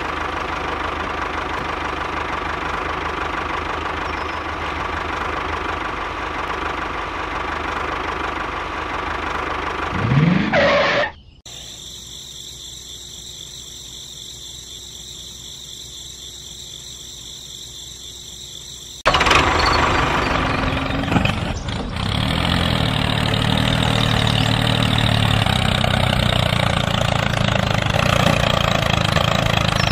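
A mini tractor's motor running steadily. Near 11 seconds the pitch rises briefly, then it cuts off abruptly to a quieter hum. From about 19 seconds it runs louder again.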